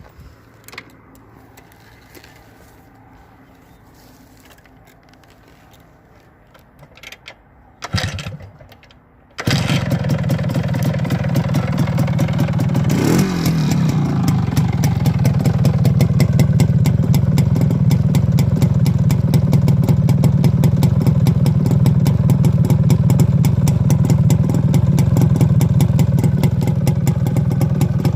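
Old two-stroke motorcycle engine being started: a couple of short bursts, then it catches about nine and a half seconds in, is blipped once and settles into a steady run with a rapid, even exhaust beat.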